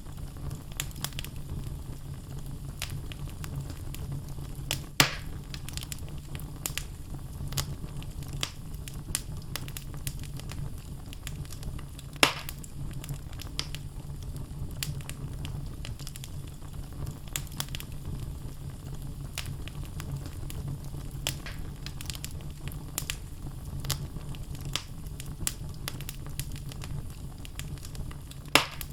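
Wood logs burning in a fireplace: a steady low sound of flames with frequent small crackles, and three louder pops, at about five seconds, about twelve seconds and near the end.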